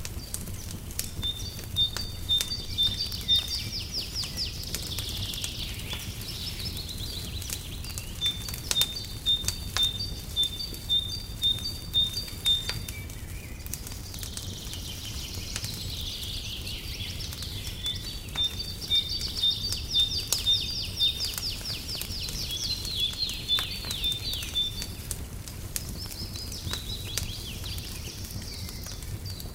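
Wood fire crackling in a fireplace, with frequent sharp pops over a low rumble. A songbird sings two long phrases of repeated high notes and trills.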